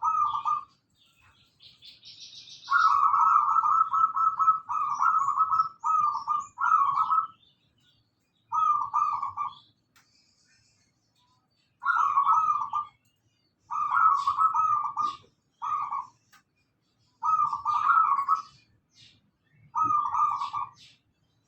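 Zebra dove (perkutut) cooing over and over in short, rapid, trilling phrases about a second long, separated by brief pauses, the full song of a bird in active singing form. Faint high chirps of other small birds sound in between.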